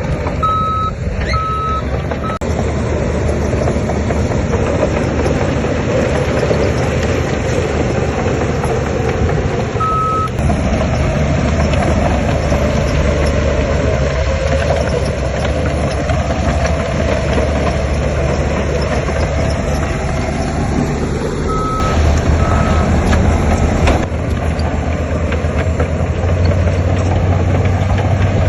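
Heavy diesel earthmoving machinery running steadily, its engine pulling harder about a third of the way in and again near the end. A reversing alarm gives a few short beeps at the start, once in the middle and twice later on.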